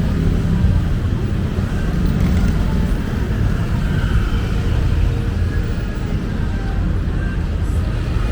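Steady city street ambience: a constant low rumble of road traffic, with faint voices of people nearby.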